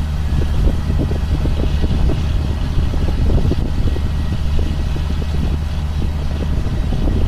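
John Deere self-propelled sprayer's engine running steadily under way, a constant low hum with a rapid, irregular flutter over it.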